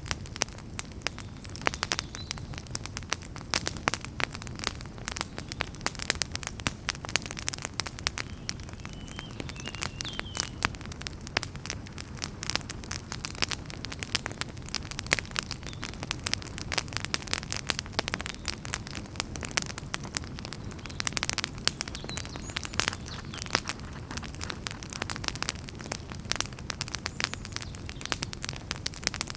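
Burning firewood crackling with frequent irregular pops and snaps over a steady low rush of flame.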